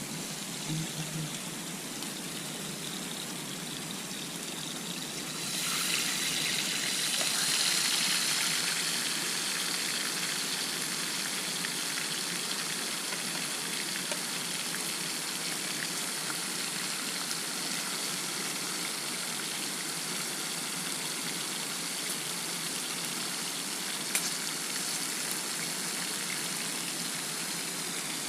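Steady rush of flowing water, growing louder and hissier about five and a half seconds in. A single sharp click sounds near the end.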